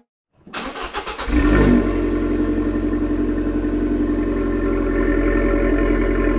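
A 2012 Abarth 500C's turbocharged 1.4-litre four-cylinder is cold-started through its stock exhaust. The starter cranks for about a second, then the engine catches with a brief rev flare and settles into a steady idle.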